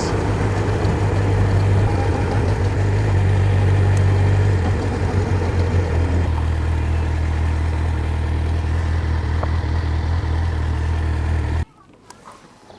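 Honda CBF1000's inline-four engine running steadily at low revs, with a slight rise in revs around four seconds in; it stops abruptly near the end.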